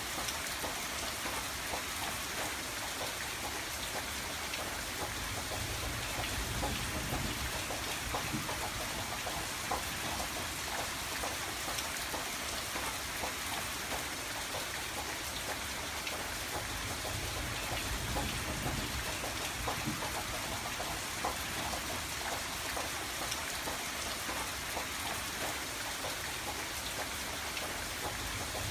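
Steady rain pattering on a window, dense drops ticking against the glass over a soft wash of rainfall, with a low rumble that swells slightly a couple of times.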